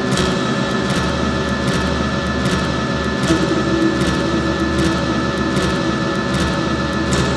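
Dense, steady drone of electronic noise with held feedback tones and short clicks about once a second, made from drawing gestures fed through a mixing desk, effects pedals and internal feedback routing.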